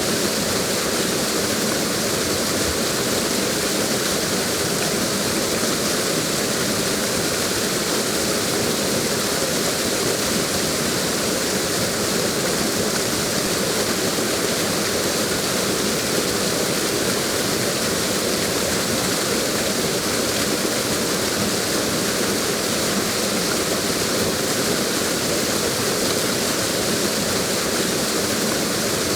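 Waterfall pouring: a steady, unchanging wash of water noise.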